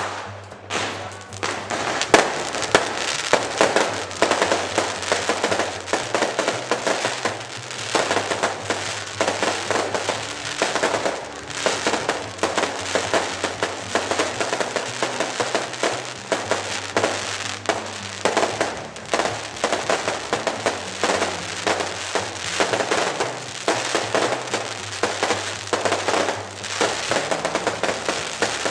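Fireworks display: a dense, continuous run of bangs and crackling shell bursts, with music playing underneath.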